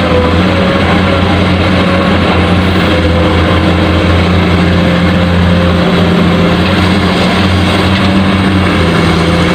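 A steady, loud engine-like drone with a low hum that holds the same level throughout.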